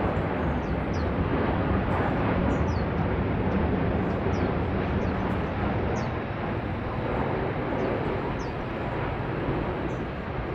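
Jet airliner engine noise, a steady rumbling rush that eases slightly near the end, with short, high, falling chirps sounding now and then over it.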